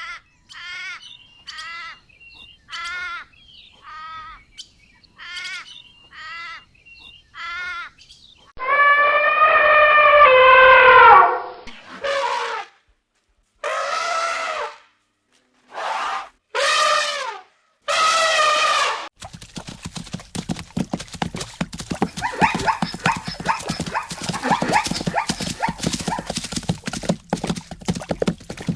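An animal's calls: a run of short high yelps about two every three seconds, then one long loud drawn-out call, five separate shorter calls, and a dense crackling patter near the end.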